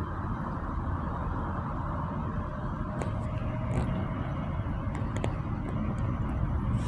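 Steady engine rumble with a few faint clicks in the middle.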